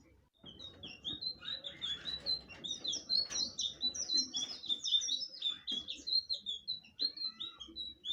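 Blue flycatcher (sikatan biru) singing a fast, unbroken run of short, high chirping notes, starting about half a second in.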